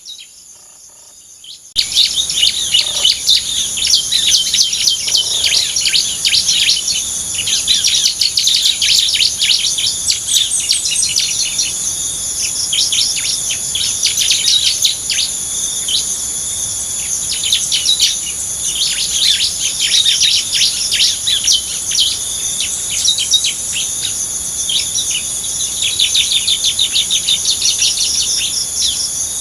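Small birds chirping rapidly and almost without pause, over a steady high-pitched drone of insects. The chirping starts suddenly about two seconds in.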